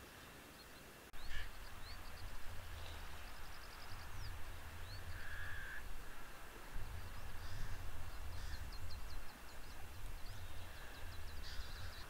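Wild birds calling: rapid runs of high twittering trills and short chirps, with a harsher lower call near the middle, over an uneven low rumble that starts about a second in.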